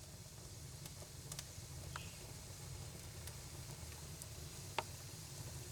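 Wood fire in a fireplace burning faintly, with scattered pops and snaps over a low steady rumble; the sharpest pop comes near the end.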